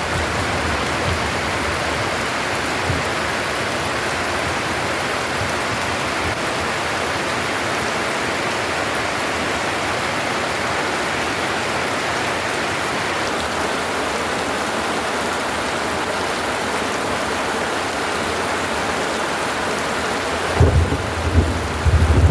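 Heavy rain pouring steadily. Near the end, a low rumble of thunder comes in irregular bursts.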